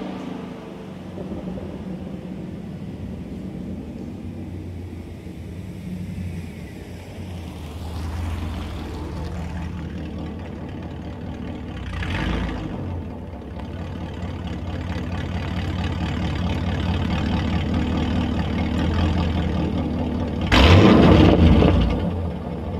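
2009 Pontiac G8 GT's 6.0 L76 V8 running through long-tube headers, high-flow cats, an X-pipe and axlebacks with the resonators deleted. It surges briefly about twelve seconds in, builds steadily, then gives a short loud burst near the end before falling away.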